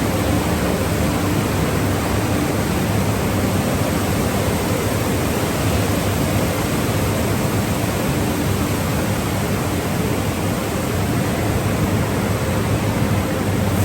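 Automatic conveyor car wash tunnel equipment running: a steady rushing hiss with a faint low motor hum underneath.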